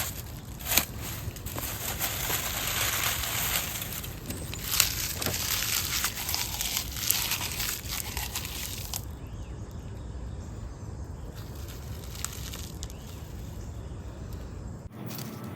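Dry leaves crackling and crunching with many small sharp snaps, fainter after about nine seconds.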